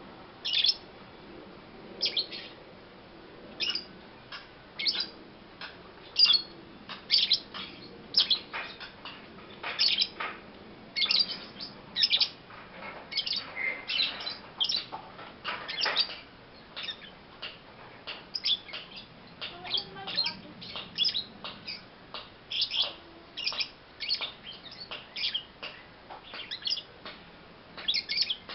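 Young pastel-blue lovebird, about four months old, chirping: a long series of short, sharp high calls, roughly one to three a second.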